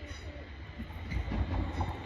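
Class 380 electric multiple unit approaching the platform: a low rumble with a few clicks, growing louder about a second in.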